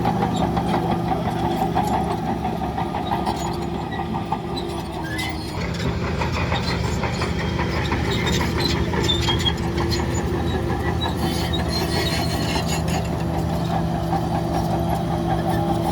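Heavy diesel earth-moving machinery running steadily, easing off briefly about four seconds in before picking up again, with scattered metallic clinks and squeaks over the engine.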